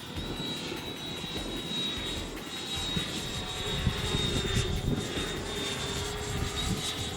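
Electric ducted fan of a 90 mm RC F-16 jet (Freewing fan and 80 mm Freewing motor) in flight: a steady high whine with a fainter lower hum beneath it.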